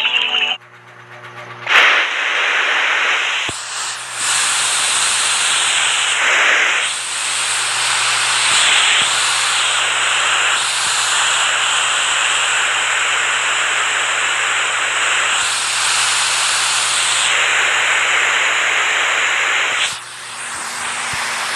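Rushing water: a loud, steady hiss that starts suddenly about two seconds in and shifts slightly in strength, dipping near the end.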